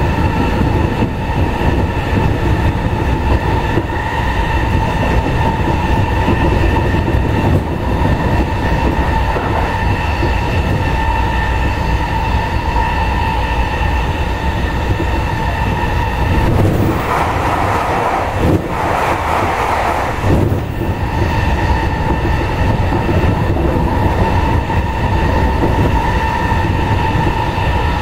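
Interior of a JR East E217 series electric train running fast on the Sobu Rapid Line: a steady wheel-and-rail rumble under a traction motor whine held at one pitch while cruising. About 17 seconds in, a louder rushing noise rises over it for about three and a half seconds, in two surges.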